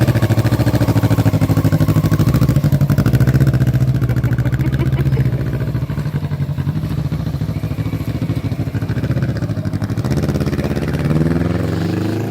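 Motorcycle engine running with a steady throb, then revving up, rising in pitch near the end.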